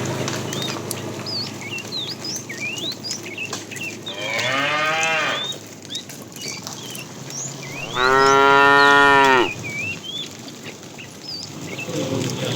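Cattle mooing: two long moos, the second, about eight seconds in, louder than the first.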